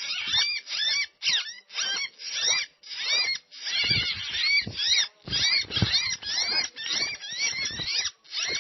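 Cinereous tits (gelatik batu) calling: a rapid, unbroken series of short arched chirps, several a second, with a few soft low thumps about halfway through.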